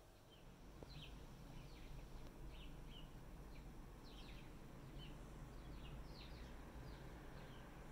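Faint bird chirps: short, falling notes, about two a second, over a faint steady low rumble.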